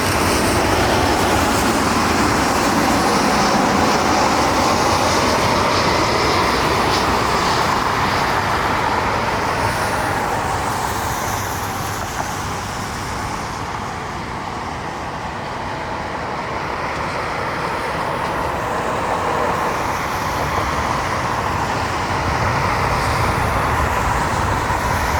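Jet engines of a landing Southwest Airlines Boeing 737: a loud, steady rush that eases a little midway and swells again near the end.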